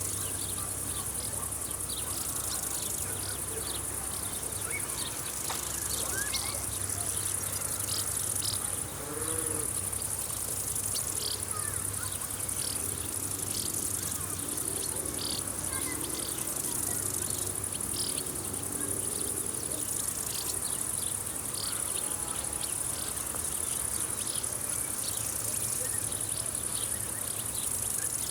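A steady, high-pitched summer insect chorus of field crickets and grasshoppers, with many short chirps over it. A lower, wavering buzz comes and goes in the middle.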